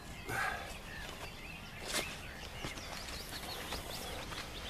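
Birds chirping and calling over a steady outdoor background hiss, with one short sharp sound about two seconds in.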